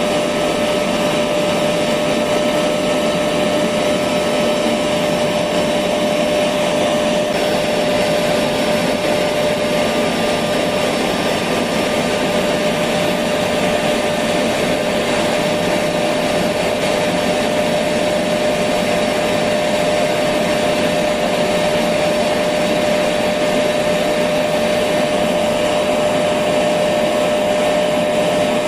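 Electric vacuum cleaner running continuously: a steady, loud rushing hum with a constant motor whine.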